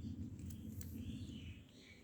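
Birds chirping faintly over a low rumble, with a couple of sharp clicks about halfway through.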